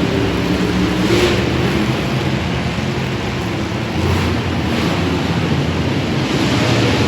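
Monster truck engine running loudly: a low engine note under a steady wash of noise.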